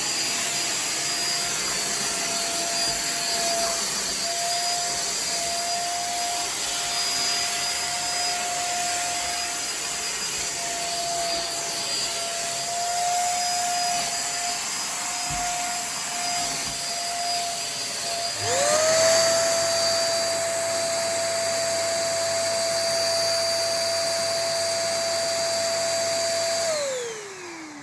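Adler AD7030 canister vacuum cleaner running with a steady motor whine and rush of air. About two-thirds of the way through it starts up again, the whine rising quickly to full speed. Near the end it is switched off and the whine falls as the motor spins down.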